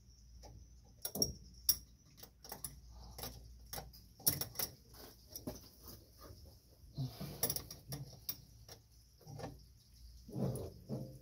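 Irregular clicks and light metal knocks of hand tools and parts being handled while a new fuel pump is fitted to a Corvair engine, with a few louder clusters of clatter spread through.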